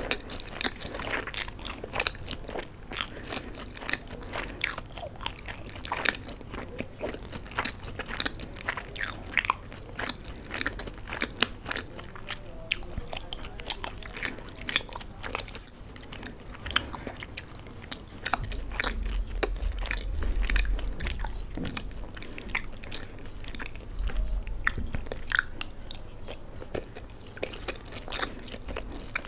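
Close-miked chewing of a mouthful of macaroni pasta, with many short wet mouth clicks and smacks. For a few seconds past the middle a low rumble runs under the chewing.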